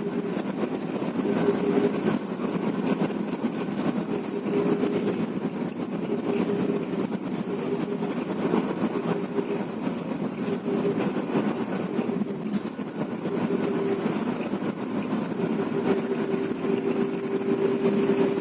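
Intercity bus running on the road: a steady engine and road noise, with a humming tone that fades in and out.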